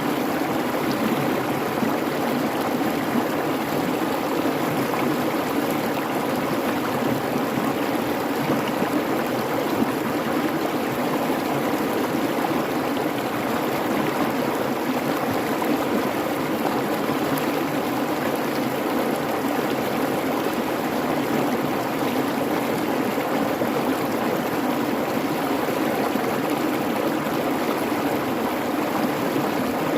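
Creek (babbling brook) flowing with a steady, unbroken rush of water.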